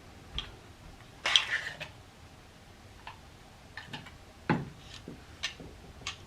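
Steel parts of an M1 Garand rifle being handled during disassembly: a short scraping rattle a little over a second in, then a series of separate metallic clicks and knocks, the loudest about four and a half seconds in.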